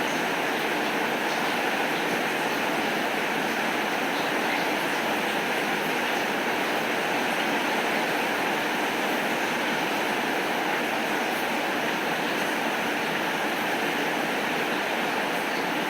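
Heavy rain falling in an even, steady downpour, with no thunder.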